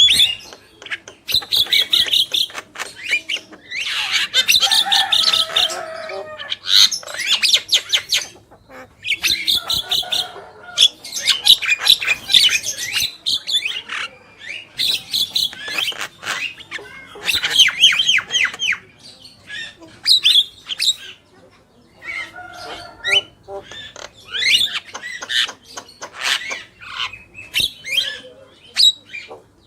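Javan mynas calling continuously: a busy run of harsh squawks and rapid rattling chatter mixed with short whistled notes and glides, broken by brief pauses.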